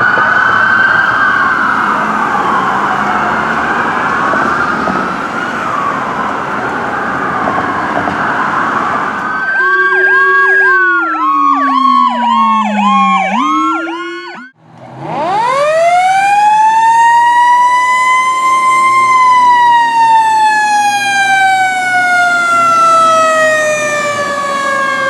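Emergency vehicle sirens. First several wail over one another. Then a single siren yelps fast, with a low tone falling beneath it. After a brief break, one siren winds quickly up to a high pitch and slowly winds back down.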